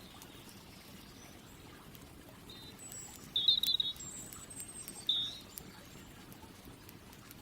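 Birds chirping: a few short, bright calls in the middle, the loudest a quick trill about three and a half seconds in, with thin high notes around them. Faint scattered crackles from a campfire and a steady low background run underneath.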